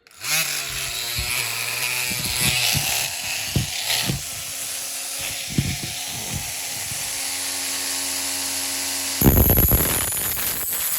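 Small rotary power tool running and cutting into the metal central window pillar of a diecast model. It grows louder and harsher about nine seconds in.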